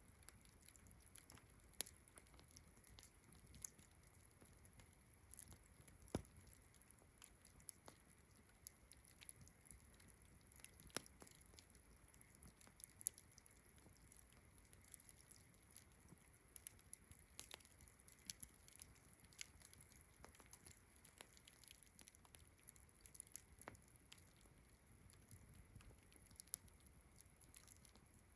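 Wood fire crackling, with irregular sharp pops and snaps scattered through a quiet bed. Behind it a faint, steady, high insect trill from crickets runs on.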